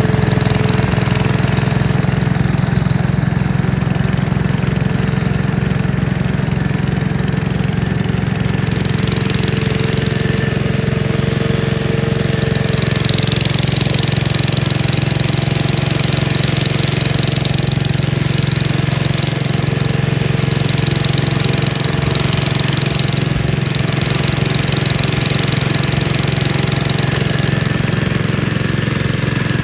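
Gravely Commercial 10A walk-behind tractor's engine running steadily at an even speed.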